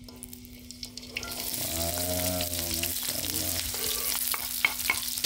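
Sliced shallots, garlic and bird's-eye chilies hit hot oil in a wok and start to sizzle about a second in, then keep frying steadily. A few light clicks come near the end.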